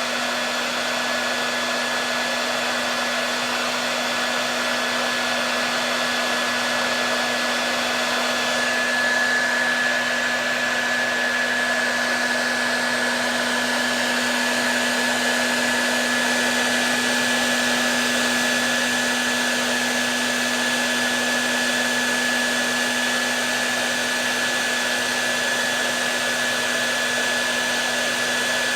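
Hair dryer running steadily: an even rush of blown air with a steady low hum and a thin high whine, the whine a little stronger from about nine seconds in.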